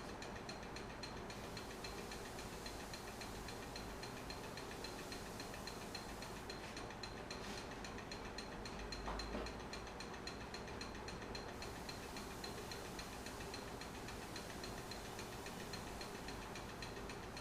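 Wood lathe running slowly, at about 200 RPM, with a faint, steady, even ticking.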